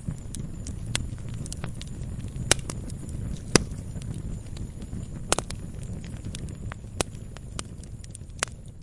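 Wood fire crackling in a fireplace: irregular sharp pops and snaps over a low, steady rumble of flames, with the loudest pops about two and a half and three and a half seconds in.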